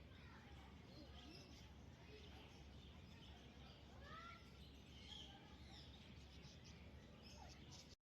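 Faint chirps and short whistling calls from pet parrots, scattered throughout over a steady low hum.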